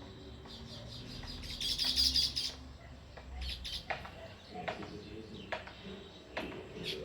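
House sparrows chirping: a dense flurry of chirps about two seconds in, then scattered single chirps.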